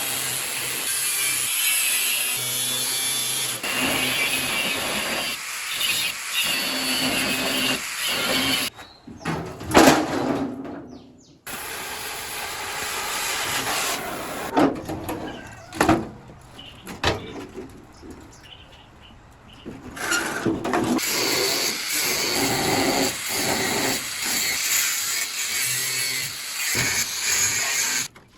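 Workshop tool noise from power tools and hand tools at work on the tricycle, in several short segments that change abruptly, with a few sharp knocks.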